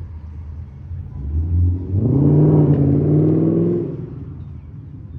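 Car engine accelerating: it swells about a second in, runs loud with a slowly rising pitch for about two seconds, then dies away.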